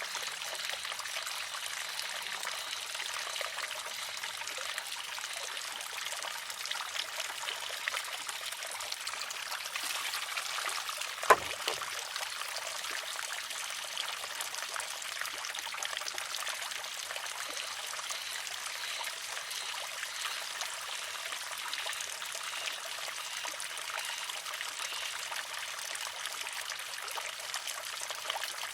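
Water trickling steadily into a wooden shishi-odoshi, with one sharp clack about eleven seconds in as its wooden arm tips and strikes the stone, ringing briefly.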